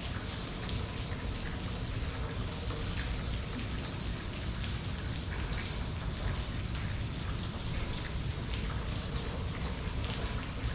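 Steady rain falling, with many distinct drops pattering on nearby surfaces over a continuous hiss and a low rumble.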